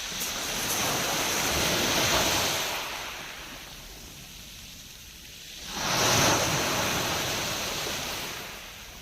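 Sea waves breaking on the shore, two of them: the first swelling and fading in the first few seconds, the second breaking more suddenly about six seconds in and washing out.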